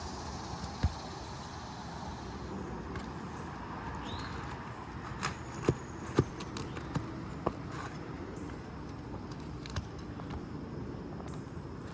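Scattered sharp metal taps and clicks, the loudest two about half a second apart near the middle, over a steady background hiss: a flat pry bar being worked under asphalt shingles to pull out the roofing nails.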